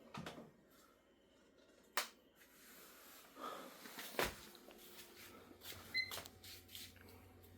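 A couple of sharp clicks from handling equipment, then a faint steady electrical hum and one very short electronic beep about six seconds in.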